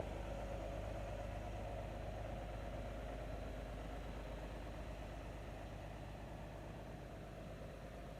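Iveco 450E37 truck tractor's diesel engine running at a steady idle, growing slightly quieter toward the end.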